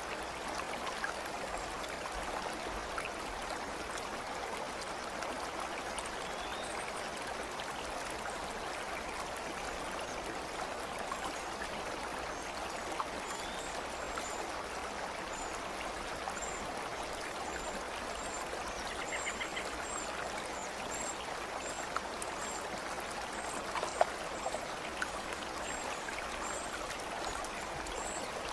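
A stream of flowing water, rushing steadily. Faint, high, short chirps repeat from near the middle onward, and a few small drip-like clicks stand out, one sharper than the rest about three-quarters of the way through.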